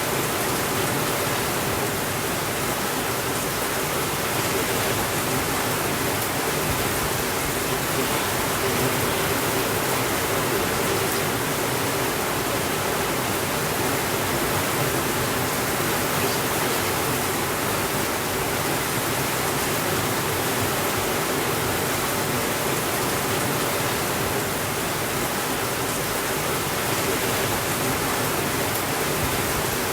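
Steady rainfall, an even rushing hiss with no thunder and no changes in level.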